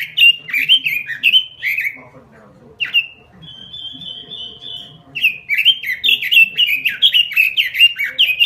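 Pekin robin (red-billed leiothrix) singing a fast run of loud, downward-sweeping whistled notes. About two seconds in it breaks off for a single sharp note and a short buzzy trill, then resumes the fast run about five seconds in.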